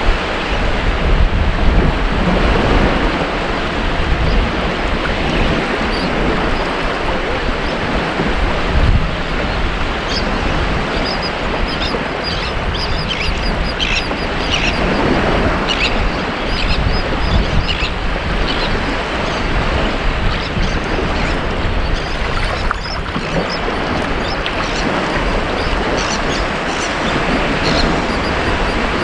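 Ocean surf washing steadily onto a beach. Short, high bird calls are scattered over it through the middle and later part.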